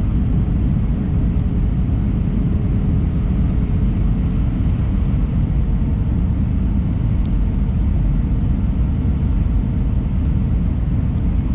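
Steady low rumble of an airliner's engines and airflow, heard inside the passenger cabin, with a faint steady hum under it.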